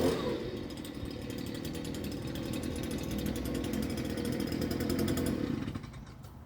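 Small lawn mower engine running steadily at a lower, rattly speed, then stopping about five and a half seconds in.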